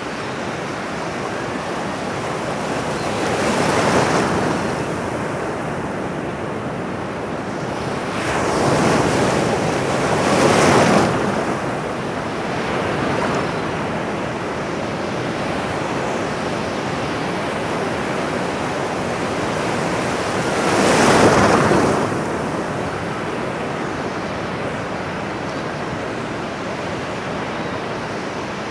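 Ocean waves washing on a shore: a steady rush of surf with three louder waves swelling and breaking, about four seconds in, around ten seconds in and about twenty-one seconds in.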